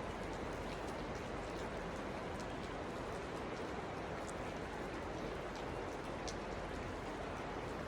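Steady rush of flowing creek water, with scattered small ticks of droplets and splashes.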